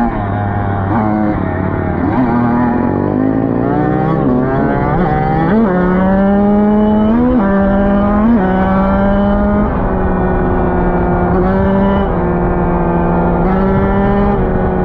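Dirt bike engine under way, its pitch climbing and dropping several times as it accelerates through the gears, then running at a steady speed from a little past halfway.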